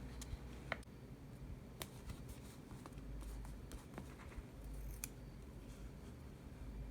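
Faint sticker and paper handling: a few scattered light clicks and rustles as a planner sticker is peeled off its sheet and pressed onto the page.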